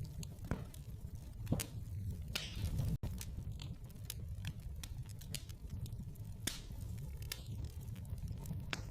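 Wood fire in a fireplace crackling, with irregular sharp pops and snaps and a few short hisses over a steady low rumble.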